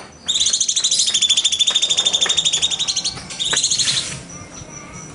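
Cucak cungkok bird singing a rapid, high-pitched rattling trill, held for about three seconds. A shorter burst of the same trill follows after a brief break.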